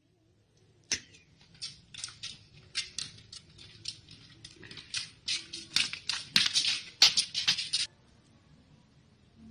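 A run of irregular sharp clicks and taps, sparse at first and coming thick and fast near the end, then stopping suddenly.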